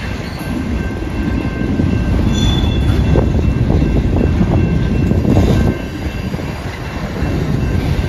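Freight train of boxcars rolling past, its steel wheels rumbling and clattering steadily.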